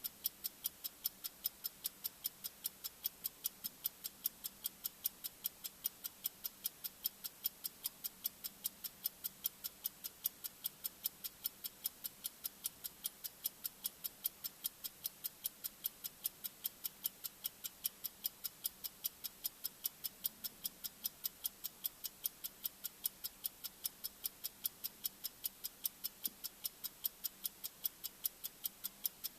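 Bomb countdown timer's 'tik-tik' ticking sound effect: fast, even, sharp clicks alternating louder and softer, over a faint steady low hum.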